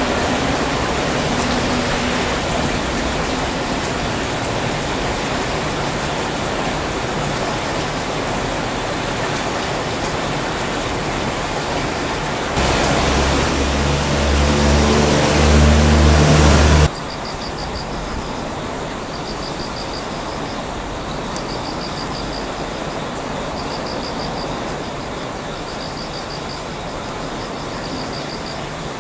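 Rail-yard train noise: a steady rushing rumble that slowly fades, then a louder humming drone that swells for a few seconds and cuts off abruptly just past halfway. Afterwards a quieter steady background with a faint high chirp repeating about every second and a half.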